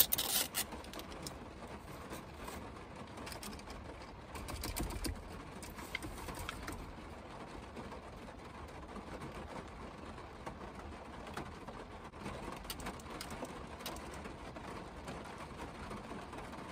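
Rain on the roof and windows of a car, heard from inside the cabin: a steady hiss with scattered light ticks of drops. A few sharp crinkles near the start as a plastic sauce cup is peeled open and handled, and a low bump about five seconds in.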